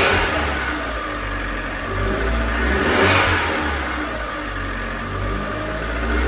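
Abarth 595's turbocharged 1.4-litre four-cylinder engine running with a knocking noise after an oil change; the owner is unsure whether anything is wrong. The revs swell briefly at the start and again about three seconds in.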